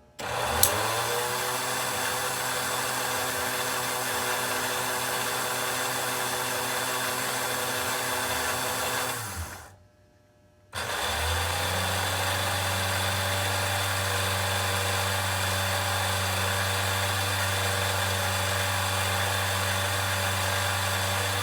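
American Flyer 752 coal loader's electric hoist motor humming steadily as it drives the clamshell bucket. It runs twice, about nine seconds and then about ten more after a one-second stop, and each time winds up in pitch at the start. A sharp click comes just after the first start.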